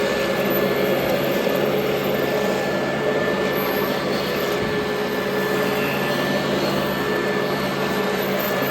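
Royal Model 2008 upright vacuum cleaner running steadily, its motor giving an even whine over a rush of air.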